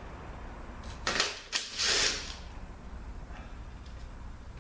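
Ratchet with a 13 mm socket loosening the bolts that hold the lockup switch on a 200-4R transmission: a few short bursts of clicking about a second in and again around two seconds.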